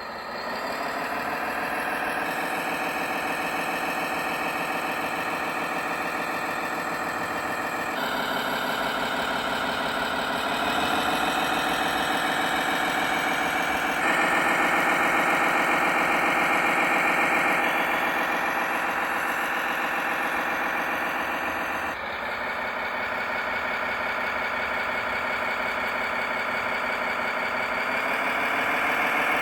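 Simulated diesel engine sound from an RC model truck or tractor's electronic sound module, played through its small speaker. It idles and revs up and down, with the pitch dropping at the start and rising again twice. The sound changes abruptly a few times.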